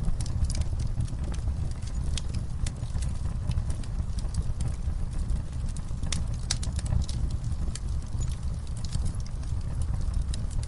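Wood fire crackling: irregular sharp snaps and pops over a steady low rumble of burning flames.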